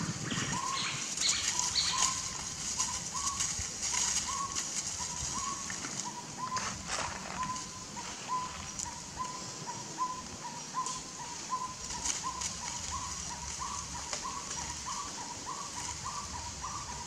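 A bird calling one short note over and over, about twice a second, each note hooking slightly upward.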